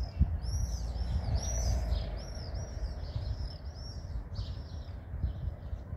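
A small songbird chirping a quick run of short high notes, about three a second, fading after the middle, over a steady low rumble.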